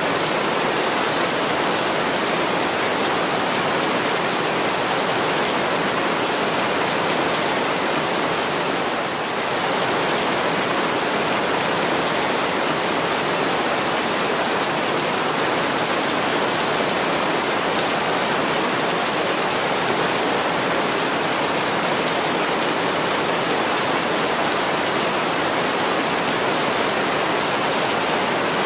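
Heavy rain pouring steadily on a window, a dense even hiss with no single drops or crackles standing out; it eases briefly about nine seconds in.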